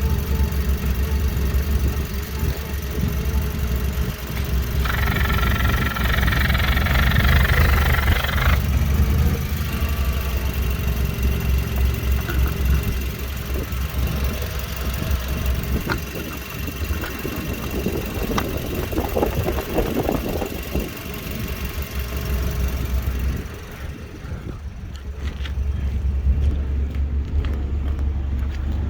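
VW Golf 5's 1.6 FSI (BLF) four-cylinder petrol engine running steadily during an engine test, with a higher-pitched whine for about three seconds around five seconds in.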